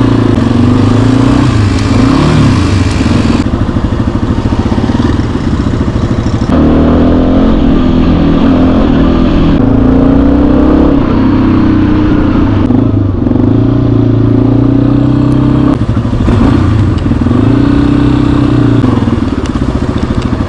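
Yamaha XT250 single-cylinder motorcycle engine running while riding, its pitch rising and falling over and over with throttle and gear changes. The sound jumps abruptly several times.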